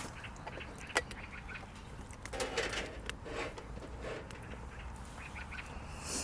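A cat meowing, with a sharp click about a second in.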